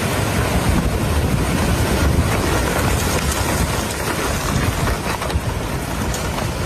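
Strong storm wind rushing steadily and buffeting the microphone.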